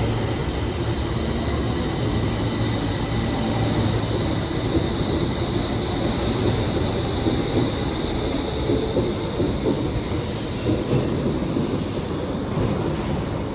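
Stockholm Metro train running on the rails: a steady rumble with a high, steady squeal over it that fades out about nine seconds in.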